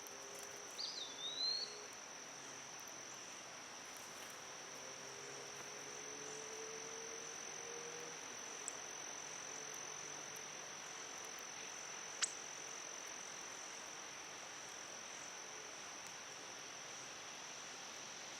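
Steady high-pitched insect drone, with a short swooping whistled bird call about a second in and a single sharp click near the middle.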